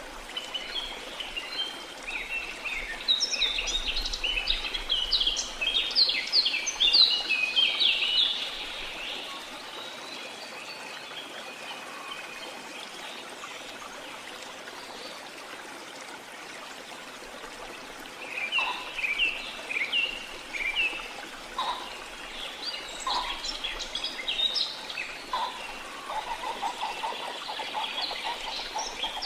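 Steady rush of falling water from a waterfall, with birds chirping over it in two spells: many quick chirps in the first several seconds, then only the water for about ten seconds, then chirping again through the second half.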